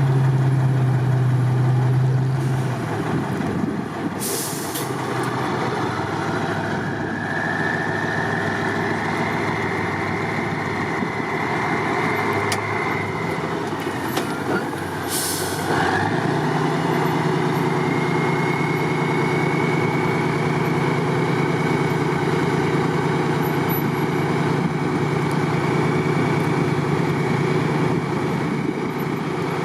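Heavy trial truck's diesel engine running under load, its whine climbing and then dropping away about halfway through before settling steady. Two short hisses of air release, about 4 s and 15 s in.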